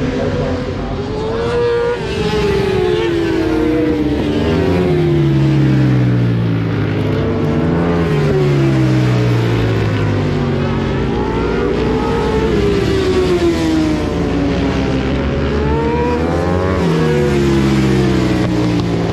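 Racing motorcycles on a circuit, several engines at once, their pitch rising and falling repeatedly as they accelerate, brake and pass.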